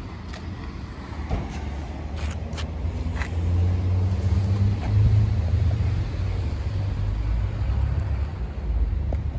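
Low rumble of a motor vehicle's engine, swelling about midway and easing off again, with a few faint clicks.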